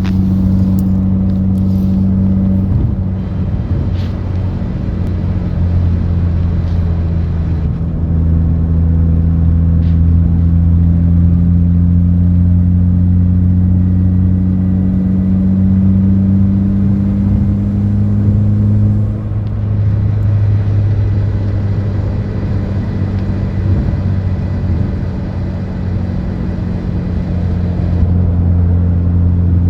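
Mitsubishi Lancer Evolution X making a steady low buzzing drone. Its pitch creeps slowly upward through the middle, then drops back and holds steady. The owner is recording it as an unwanted buzzing noise from the car.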